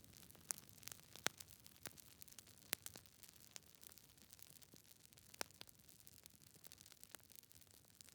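Campfire crackling: irregular sharp snaps and pops, a few louder ones among many small ones, over a faint hiss.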